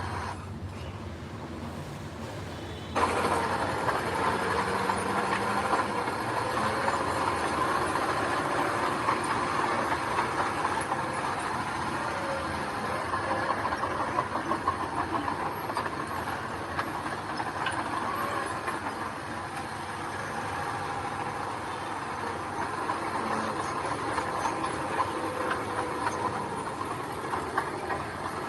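Diesel construction machinery running steadily, with a continuous rattling, clattering noise over the engine. It gets abruptly louder about three seconds in.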